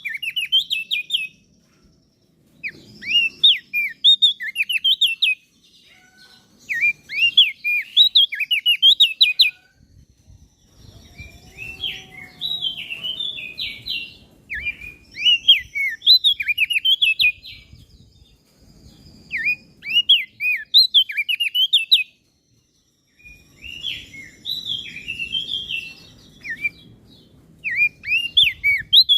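Crested white-eye (opior jambul) singing in repeated phrases of quick, high chirping notes, each phrase a second or two long, with short pauses between.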